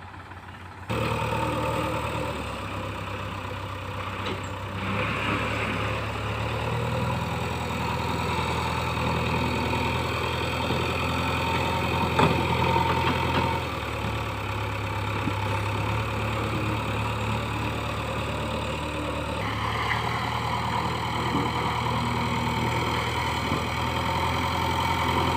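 Heavy diesel engine running steadily. It starts suddenly about a second in, and its pitch shifts a few times as the engine speed changes.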